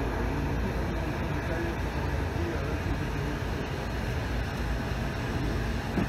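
Steady rumble of a moving passenger train heard from inside the coach, with faint voices in the background.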